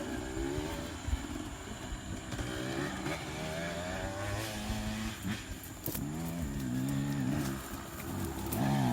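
Trail motorcycle engines running, their pitch wavering up and down with the throttle, with a few sharp knocks along the way.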